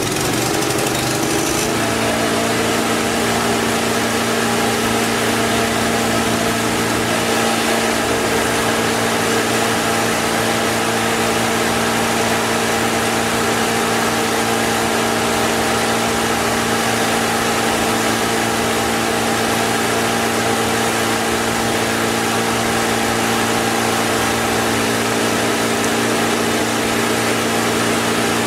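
A small engine running steadily at an even pitch, without revving.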